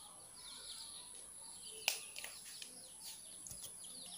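Faint chirping of small birds, short falling chirps repeating on and off, with a single sharp click about two seconds in.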